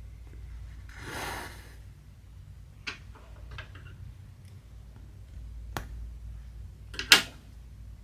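Cross-stitching at close range: a brief swishing rustle about a second in, like thread drawn through fabric, then a few sharp ticks and taps, the loudest near the end, over a faint low room hum.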